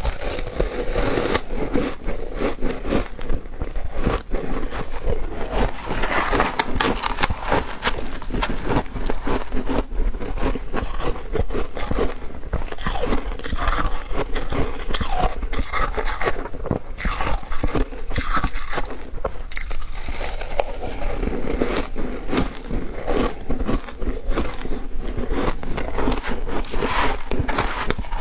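Close-up crunching and chewing of ice: a dense, steady run of sharp cracks and crackles from bites and chewing.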